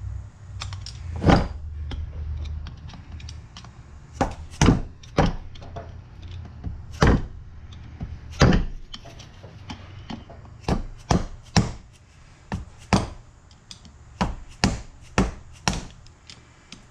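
Hammer tapping on a screwdriver, some twenty sharp knocks at an uneven pace, bending back the locking tabs on the cylinder-head bolts of a Yamaha Warrior 350 ATV engine.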